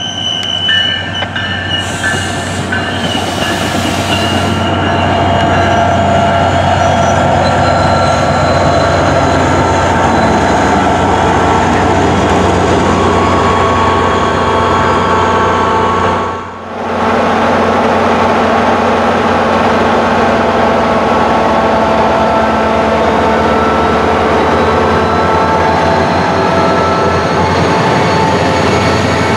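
SunRail commuter train with a diesel locomotive: a loud, steady rumble with steady high-pitched tones over it, broken by a short dip about two-thirds of the way through, after which the locomotive keeps running just as loudly beside the platform.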